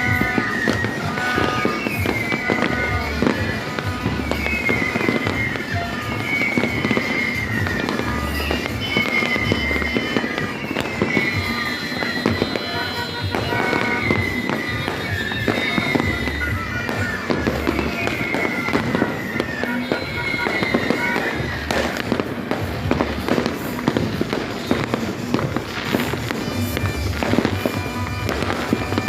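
New Year fireworks and firecrackers popping and crackling continuously, with music playing over them. A wavering high-pitched tone repeats about every two seconds until about two-thirds of the way through.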